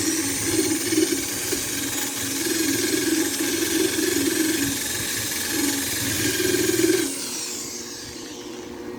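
Angle grinder running on steel, grinding down welds, its steady whine broken by uneven surges as the disc bites; about seven seconds in it is switched off and winds down.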